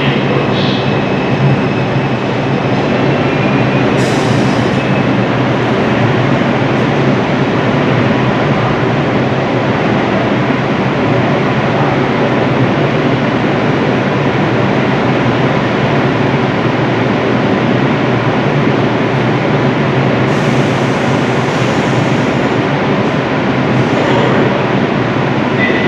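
Train running steadily at an unchanging loud level, a continuous noise of wheels on rail with a few steady low tones.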